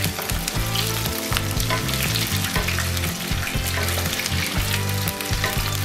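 Brinjal (eggplant) pieces sizzling and crackling as they fry in oil in a nonstick wok, turned over with a wooden spatula.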